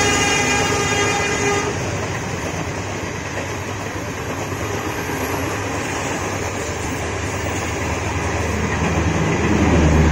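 Superfast passenger train running through a station at speed. Its horn sounds and cuts off about a second and a half in, then comes the steady rush and rumble of the coaches and wheels on the rails, growing louder and deeper near the end.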